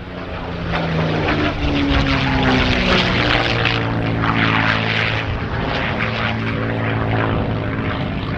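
Rolls-Royce Merlin V12 of a P-51 Mustang flying a display pass, the propeller and engine note loud and steady. The pitch rises and then drops about three seconds in as the aircraft passes by.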